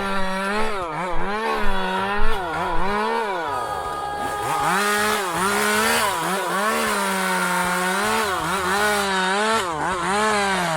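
Chainsaw engine revving over and over, its pitch dropping and climbing back up roughly once a second.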